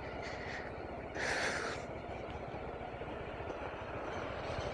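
BMW G310RR's single-cylinder engine running at low revs on a closed throttle, engine braking down a steep slope. A brief hiss sounds about a second in.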